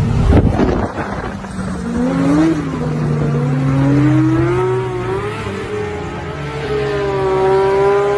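Porsche 911's flat-six engine revving up and down as the car slides and spins on a wet road, its pitch rising and falling several times. A short jumble of noise comes right at the start.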